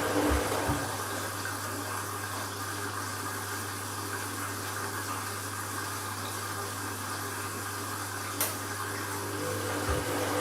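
Candy washing machine taking in water during an empty bleaching wash: a steady rush of water filling the drum over a low hum, with the drum at rest, and a single click about eight seconds in.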